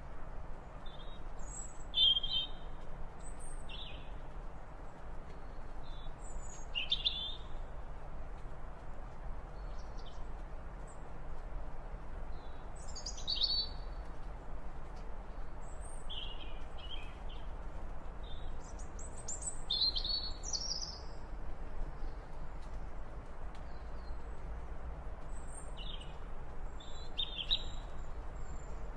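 Birds chirping: short high calls scattered every few seconds, some in quick clusters, over a steady low background noise.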